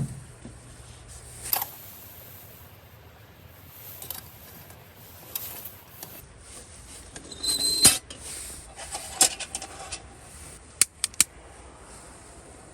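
Scattered clicks, knocks and rubbing of small objects being handled, with the loudest cluster, ending in a brief high ring, a little before eight seconds in and a few sharp clicks near eleven seconds.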